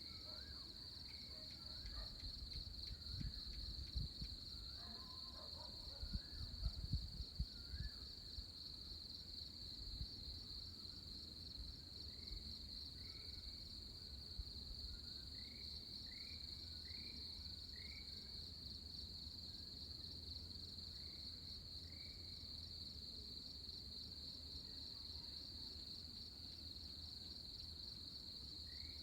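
Dawn chorus: a steady, high-pitched insect trill runs throughout, with scattered short rising bird calls. Low rumbles of wind on the microphone a few seconds in.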